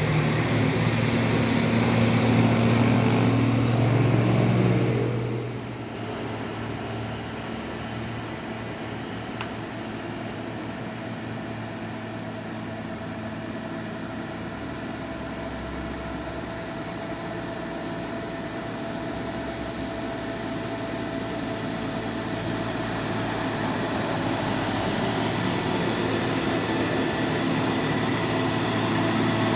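Truck engines running on a hill road. One runs loud and close for the first five seconds or so, then drops away to a quieter, steady engine sound that slowly grows louder toward the end.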